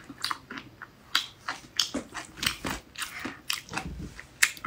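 A person biting and chewing fried food pulled off a wooden skewer, close to the microphone: many irregular short, sharp crunching clicks.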